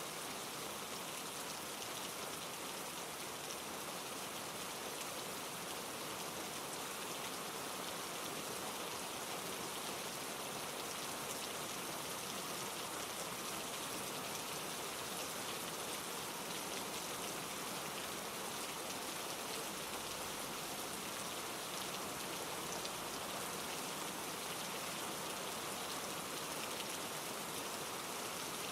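Steady rain falling on leaves and rocks, with a fine patter of drops over a mountain stream running over granite rocks.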